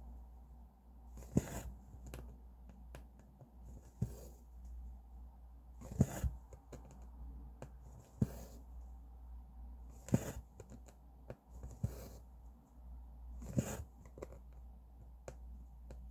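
Needle and embroidery thread being pushed and pulled through cross-stitch fabric, a short swish-and-tick about every two seconds, over a low steady hum.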